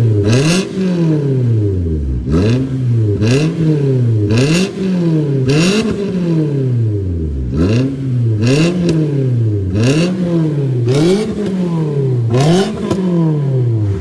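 Toyota Corolla Altis four-cylinder engine revved through an aftermarket axle-back exhaust, in about a dozen quick throttle blips, each pitch rising and falling back within about a second.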